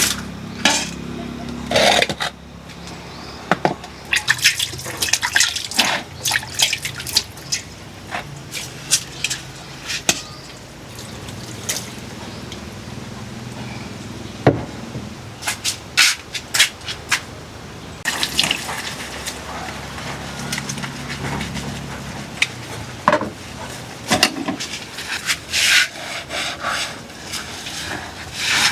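Dishes being washed by hand: water splashing and trickling, with frequent sharp clinks and knocks of utensils against each other.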